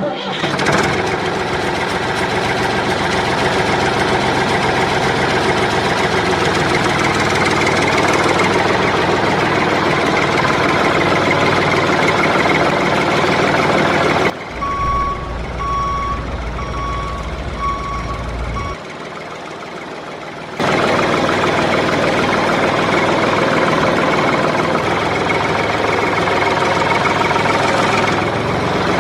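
Tractor engine running steadily. About 14 seconds in it gives way to a deeper rumble with a reversing alarm beeping about five times. After a short, quieter gap the engine sound comes back.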